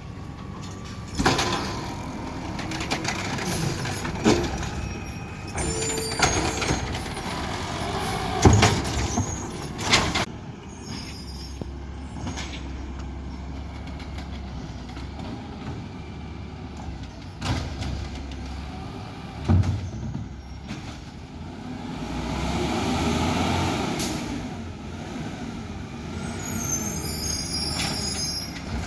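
Garbage truck working, its engine rumbling steadily, with about seven sudden sharp bangs or hisses in the first two-thirds and a swell of louder engine noise near the end.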